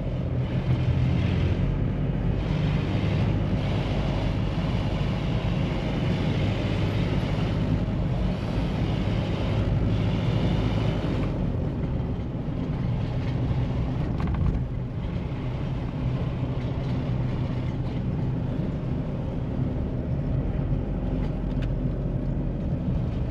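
Mahindra Bolero SUV being driven: its diesel engine running steadily under road and tyre noise.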